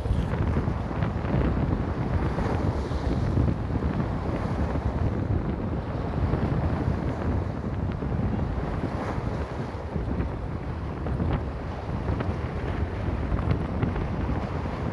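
Strong wind buffeting the microphone with a steady low rumble, over sea waves washing against rocks.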